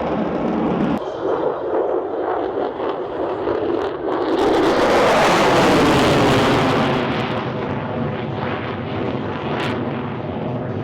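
Military jet flying past at an airshow, its engine noise swelling to a loud peak about four to seven seconds in and then easing off.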